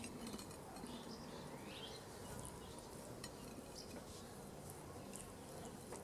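Faint outdoor ambience with scattered short bird chirps and a single sharp click about three seconds in.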